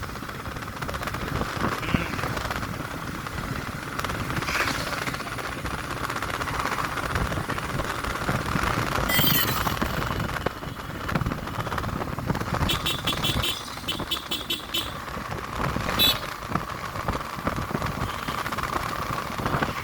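A road vehicle running steadily along, a constant hum over low rumble, with short runs of rapid high pips about two-thirds of the way through and a sharp click soon after.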